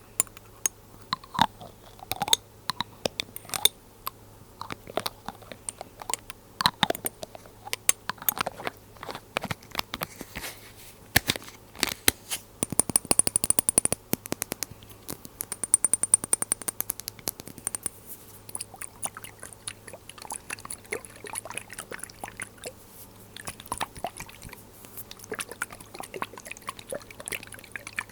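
Glass dropper bottles handled close to the microphone: a string of small clicks, taps and crackles, with two spells of rapid crackly clicking about twelve and fifteen seconds in.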